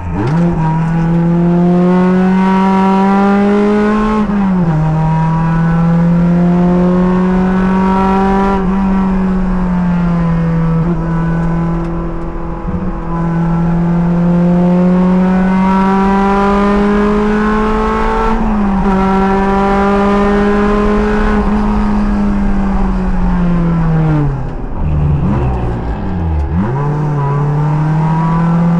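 Race car's engine under hard acceleration on track, heard from inside the cockpit. Its pitch climbs through each gear and drops sharply at upshifts a few seconds apart. Near the end the pitch falls under braking with quick downshift blips, then climbs again as it accelerates out.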